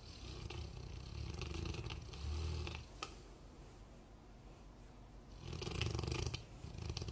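Golden retriever snoring: one long snore, then after a pause of about two and a half seconds two more snores close together near the end.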